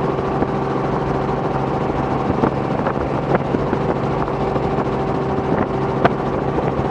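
Robinson R44 helicopter in steady flight: the continuous drone of its piston engine and rotor with a few short ticks.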